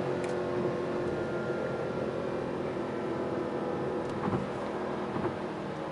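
BMW M8 Competition's 4.4-litre twin-turbo V8 running steadily at speed, heard from inside the cabin with road noise, right after a full-throttle run to 150 km/h.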